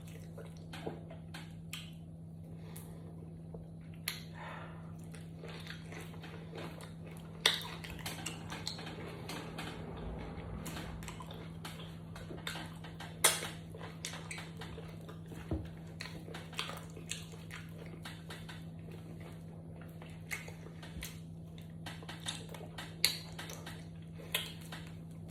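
A person eating from a plate: a spoon clinking and scraping against the dish at irregular moments, several clinks sharp and loud, with quiet chewing between them. A steady low hum runs underneath.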